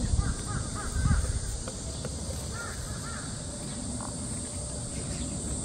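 A bird calling outdoors: a quick run of about five short notes near the start, then three more about two and a half seconds in, over a steady high hum of insects. There is a low bump on the microphone about a second in.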